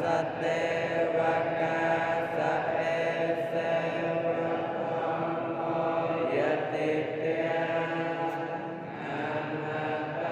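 Steady, droning chant-like voices holding several tones, with a brief pitch glide about six seconds in.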